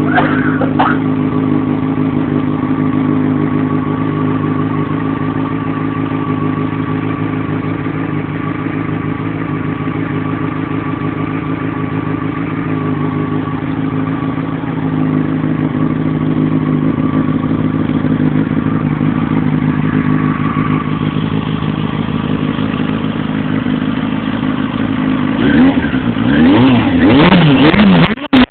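Yamaha FZ6's 600 cc inline-four engine running through a Scorpion aftermarket exhaust, idling steadily, then revved several times in quick blips near the end.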